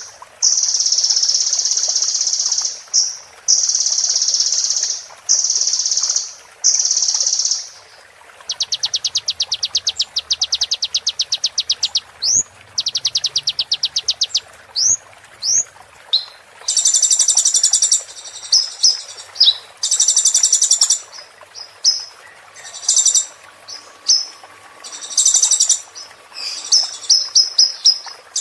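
A small songbird singing a high-pitched, varied song. It gives long buzzy trills with short breaks, then a rapid ticking trill of about ten notes a second and a few quick rising whistles, and near the end dense buzzy phrases mixed with short clipped notes.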